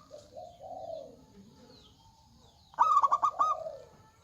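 Zebra dove (perkutut) cooing: a loud quick run of four or five clipped, high coo notes about three seconds in, with softer, lower cooing notes near the start. Faint chirps of small birds are in the background.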